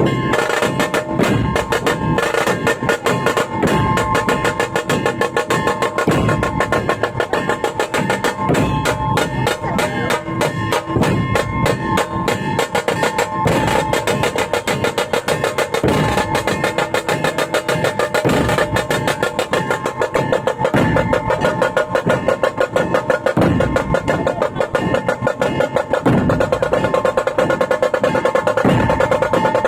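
Live drumming: fast, continuous drum strokes and rolls in a steady rhythm, with held melodic tones sounding over them.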